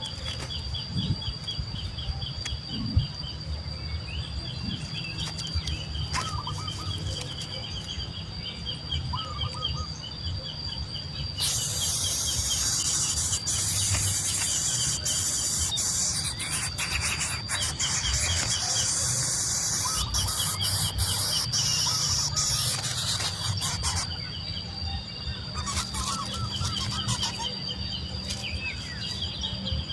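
Nestling birds chirping in quick repeated trains of high, short calls, typical of begging for food. A steady high tone runs under them, and a loud hiss covers the middle of the stretch.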